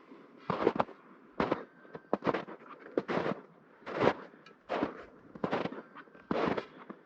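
Footsteps crunching in snow at an uneven walking pace, about one or two short crunches a second.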